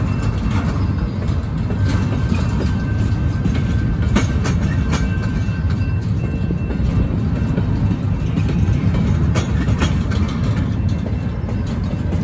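Empty double-stack intermodal well cars of a freight train rolling past: a steady rumble of steel wheels on rail, with irregular clicks and clanks from the wheels and couplings.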